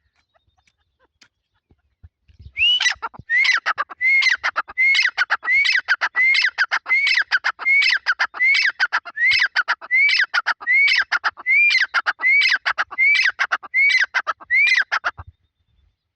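Francolin (teetar partridge) calling: a loud, harsh call repeated about seventeen times, roughly one every three-quarters of a second. The calls start a couple of seconds in and stop shortly before the end.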